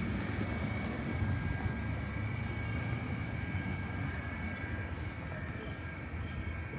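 Steady low engine rumble with a thin, steady high whine above it.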